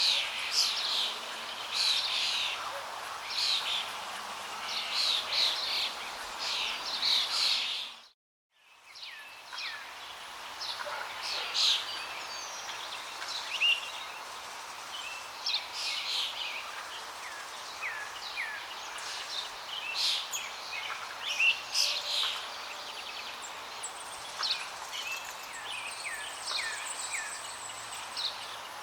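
Birds singing and calling in many short chirps and whistles over a steady rush of flowing water. The whole sound cuts out to silence for about half a second some eight seconds in, then resumes.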